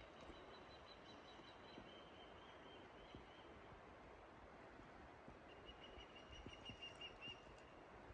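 Faint, high-pitched birdsong over quiet forest background: a thin drawn-out call in the first few seconds, then a trilling call from about halfway to near the end.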